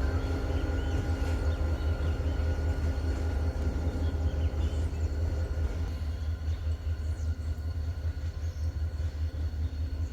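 Service train's locomotive running past with a heavy, steady low rumble and a constant engine whine, getting a little quieter in the second half as it pulls away.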